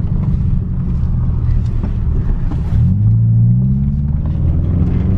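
Subaru Impreza 2.5 RS flat-four engine with its muffler removed, running loud; about three seconds in the revs climb steadily as the car is driven hard for a donut.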